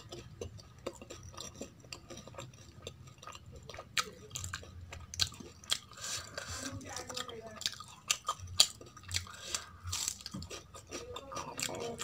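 Close-miked chewing and wet mouth sounds of someone eating kadhi and rice by hand, with many irregular sharp clicks.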